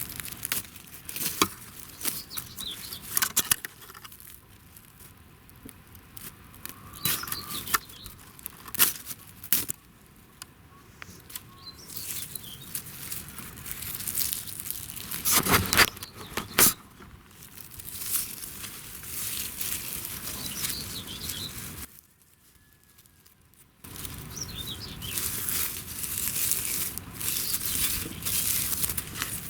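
Dry wood and plant fibres being worked by hand: irregular scraping, tearing and rustling with sharp snaps and clicks, and a drop to near silence for about two seconds late on.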